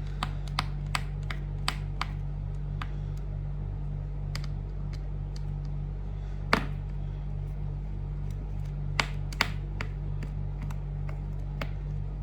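Small sharp clicks and taps of a screwdriver working the laptop's bottom-case screws: a quick run of light clicks in the first two seconds, then a louder click about halfway through and two more close together near the end, over a steady low hum.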